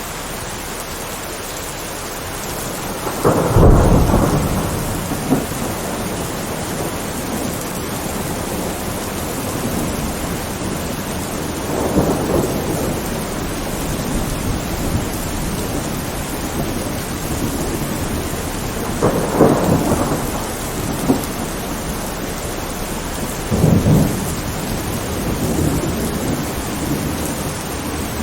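Steady rain falling, with four rumbling peals of thunder. The loudest comes about three seconds in, and the others follow at intervals later on.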